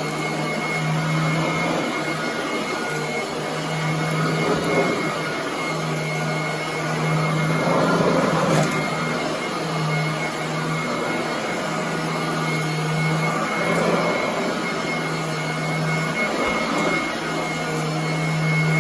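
Royal commercial vacuum cleaner running steadily on carpet, with a constant high whine and a low hum that breaks in and out every second or two.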